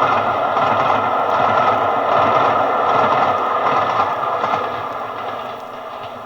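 British Railways Western Region train passing on the track, a dense mechanical rattle of wheels and wagons that fades away over the last couple of seconds as it recedes.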